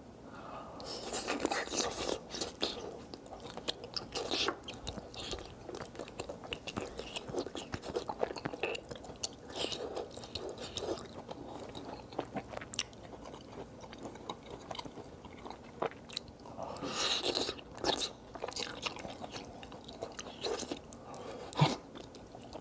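Mukbang eating sounds: a man chewing a large mouthful of cheese close to the microphone, with wet smacking and squelching in quick, irregular succession, louder in spells about a second in and again near the end.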